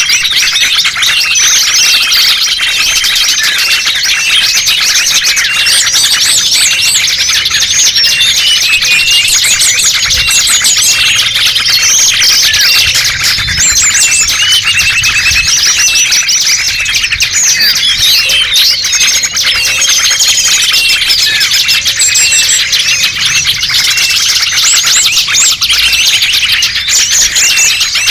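Dense chorus of many small songbirds chirping and calling over one another without pause, a bird-lure recording made to draw small wild birds in.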